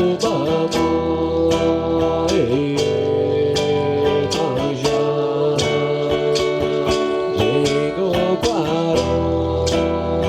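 Music: plucked acoustic guitar, with a regular run of picked notes over held tones and a few short sliding notes.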